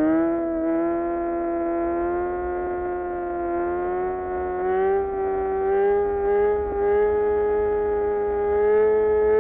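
Kawasaki Ninja ZX-6R's inline-four engine and exhaust under steady throttle, its high-revving note climbing slowly and evenly as the bike pulls in gear.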